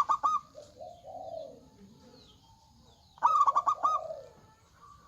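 Zebra doves (perkutut) cooing: two bursts of quick, clear repeated notes, one at the start and one about three seconds in, with lower, softer coos between them.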